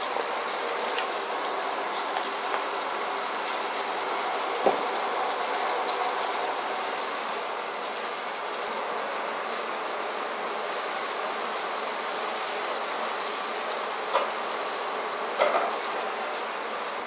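Chopped habanero peppers sizzling steadily in hot olive oil in a saucepan. There is one small knock about five seconds in and a couple of light clicks near the end.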